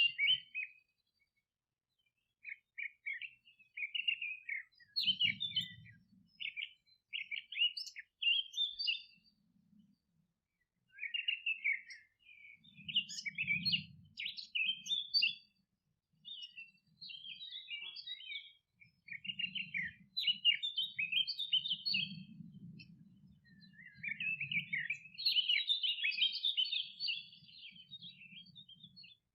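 Birds chirping and twittering in short, quick phrases with brief pauses between them, growing denser near the end. A faint low rumble comes and goes underneath.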